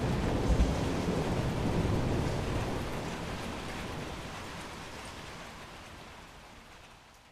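Thunderstorm: rain hiss under a low rolling rumble of thunder, heaviest at the start, then fading steadily until it is faint near the end.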